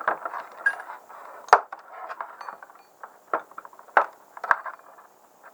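Scattered light metallic clicks and clinks of jumper-lead clips being touched to a carburetor fuel-shutoff solenoid on 12 volts, the sharpest about a second and a half in. The solenoid gives no working response: it is dead.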